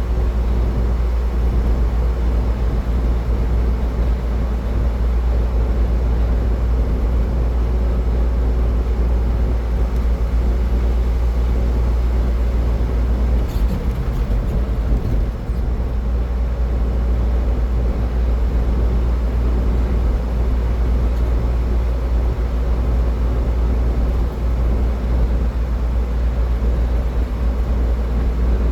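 Car driving at highway speed: a steady, low rumble of tyre and engine noise with a few constant hum tones, and a couple of faint knocks about halfway through.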